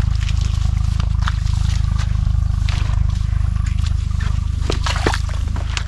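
Single-cylinder 8 HP diesel engine of a water pump set running steadily, a low, even pulsing drone, with scattered rattles and a few sharper knocks near the end.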